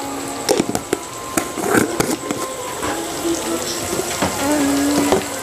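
Ground chicken skin and onion frying in an iron kadai: a steady sizzle, with a few sharp clicks and knocks scattered through it.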